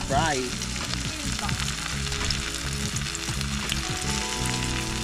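Floured chicken strips frying in hot oil in a frying pan, sizzling steadily as the pieces are laid in.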